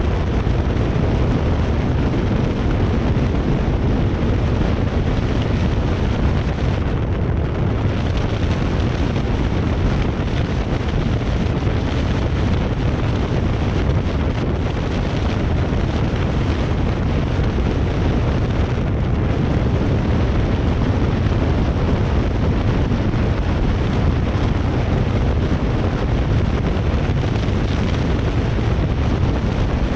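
Wind buffeting a camera's built-in microphone while travelling at speed: a steady, loud wind rush, heaviest in the low end, covering every other sound.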